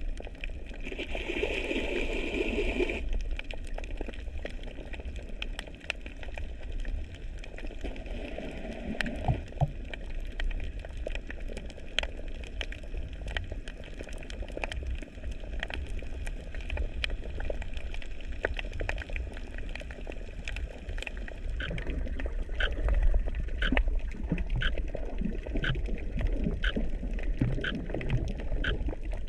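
Underwater sound picked up by an action camera held in the sea: a steady low rumble of moving water with scattered sharp clicks and crackles. A louder gurgle comes about a second in, and near the end the clicks fall into a fairly even run of roughly one to two a second.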